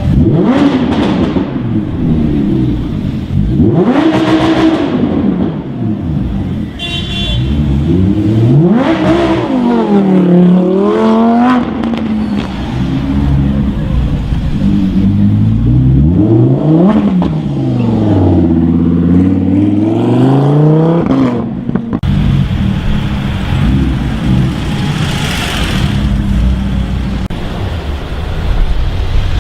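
Performance car engine revving hard several times, its note sweeping up and falling back, with one run climbing in steps as the car accelerates through the gears. About two-thirds of the way in, the sound cuts to a steadier low engine rumble.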